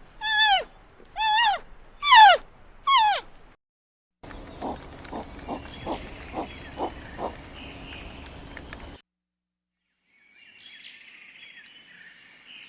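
A sequence of different animal calls: five loud, pitched calls that each fall in pitch, then a noisier stretch with a run of short calls about two a second, then after a pause fainter high-pitched sounds.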